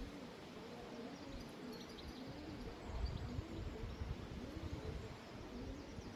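Pigeon cooing over and over, a low rising-and-falling coo about once a second, with wind gusting on the microphone.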